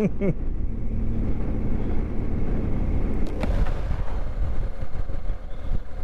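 BMW GS motorcycle on the move: a steady low rumble of engine and wind, with one short click about three and a half seconds in.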